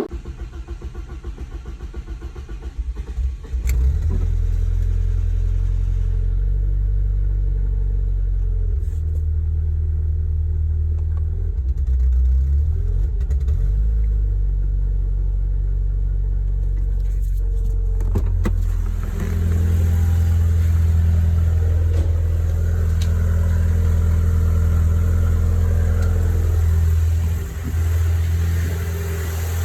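BMW E36 Touring engine turning over on the starter for about three seconds, then catching and running on its new custom exhaust with a deep, bassy note. About 19 seconds in it gets louder and rougher, with a brief dip near the end.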